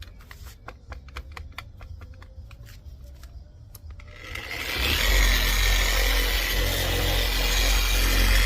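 A string of light clicks, then a handheld dual action polisher starts about four and a half seconds in and runs steadily with a low drone and a high whine.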